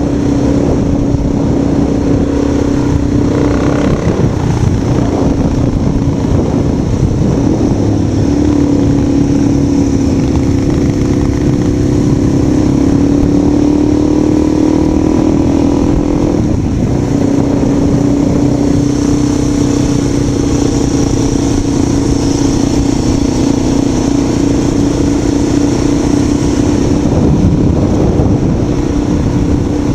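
A vehicle engine running at a steady pitch under rough wind noise, easing off briefly twice, about 4 seconds in and about halfway through.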